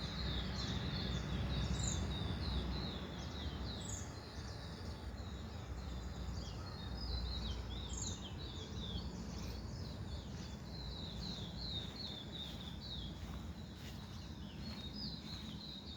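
Small birds chirping in a rapid, continuous stream of short high notes, over a steady low background rumble.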